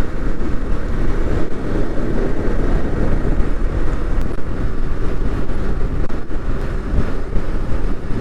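Motorcycle engine running at a steady, moderate pace while riding, with wind rushing over the microphone.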